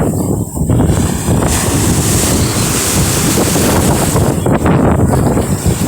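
Heavy wind buffeting the microphone in gusts.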